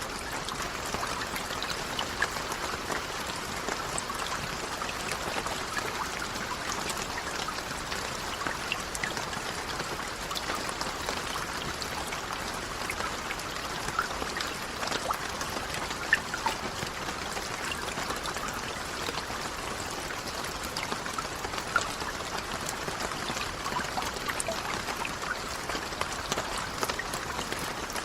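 Steady rain, an even hiss of falling water dotted with many small, sharp drop ticks, a few louder than the rest.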